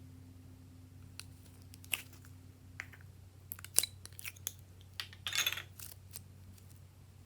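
Small objects and containers being handled: scattered light clicks and taps, with a brief rustle about five seconds in.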